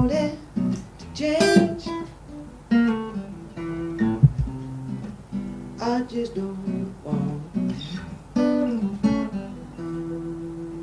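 Acoustic guitar strummed and picked through the closing bars of a song, ending on a chord left ringing near the end.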